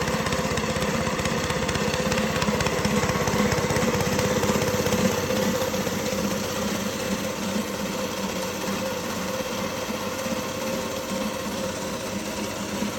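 A small engine-driven machine running steadily with a rapid low chugging and a constant hum.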